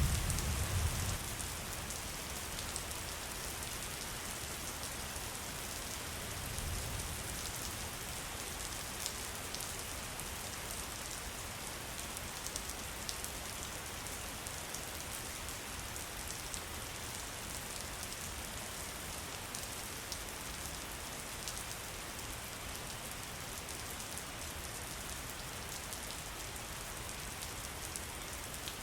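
Steady rain falling, an even hiss with scattered fine drop ticks. A low thunder rumble dies away in the first second, and a fainter low swell comes about seven seconds in.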